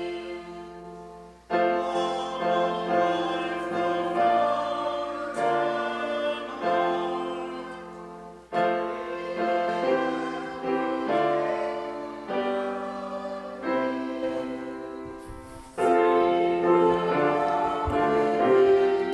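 A congregation or choir singing a hymn with keyboard accompaniment, in slow held phrases, with a new line starting loudly three times.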